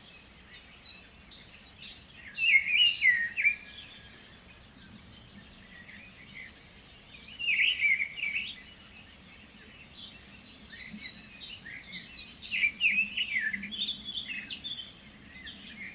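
Songbirds singing: a louder warbled song phrase comes about every five seconds, over higher, thinner chirps from other birds.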